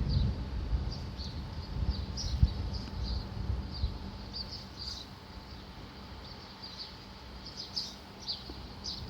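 Small birds chirping, many short high chirps overlapping through the whole stretch, over a low rumble that is heavier in the first couple of seconds.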